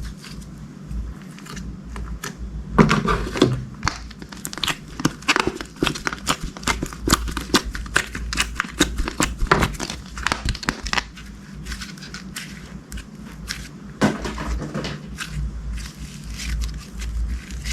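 Crunchy slime being squeezed and pressed by hand: a dense run of crackling, crinkling clicks, busiest from about three seconds in to about eleven, with another burst a few seconds later.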